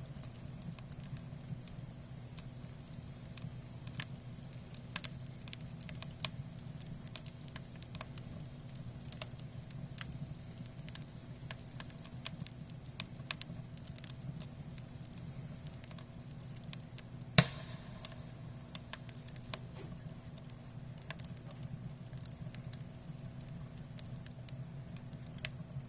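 Firewood burning in the firebox of a Chofu wood-fired bath boiler: a steady low rumble with irregular crackles and pops throughout, one much louder pop a little past the middle.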